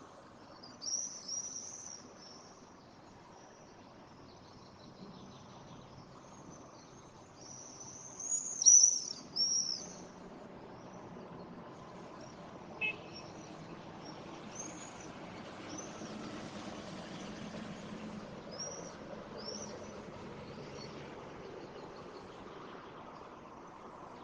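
Morning outdoor ambience: small songbirds chirping in scattered groups of short, high, arched notes, loudest about eight to ten seconds in, over a low steady background rumble that grows a little in the second half. A single sharp click sounds about halfway through.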